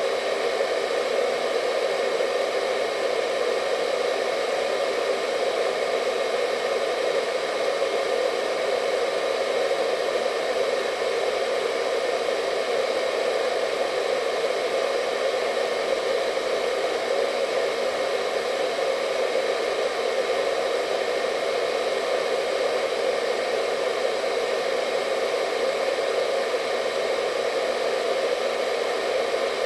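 Hair dryer running steadily: a constant whooshing blow of air with a motor hum and a faint whine, unchanging throughout.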